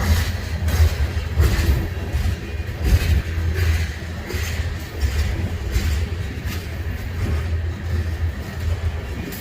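Freight train rolling past: a steady low rumble with repeated sharp clacks from the wheels.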